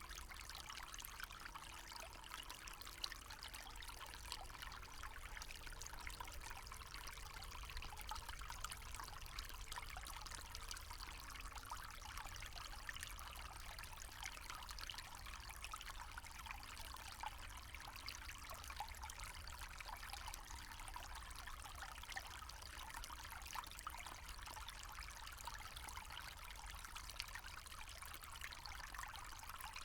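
Small forest stream trickling and babbling steadily, with many small splashes and a faint low rumble beneath.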